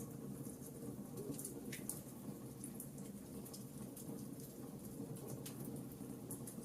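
Wood fire crackling in a fireplace: irregular sharp little pops and snaps, several a second, over a steady low background of the burning fire.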